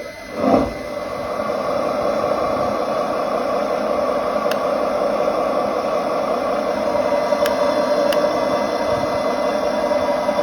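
A sudden loud thump about half a second in, then a steady mechanical rushing noise that builds over a couple of seconds and holds.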